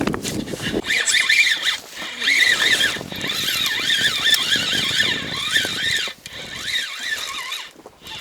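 Kamisu T 9.9 two-stroke outboard motor running, then cut off under a second in as the boat reaches its new spot. After it comes a steady stream of high, warbling chirps that rise and fall several times a second.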